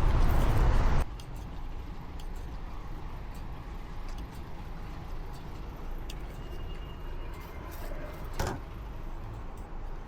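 Steady low rumble of a truck driving on the motorway, heard from the cab. It is louder for the first second, then drops abruptly to a lower, even level, with a single sharp knock near the end.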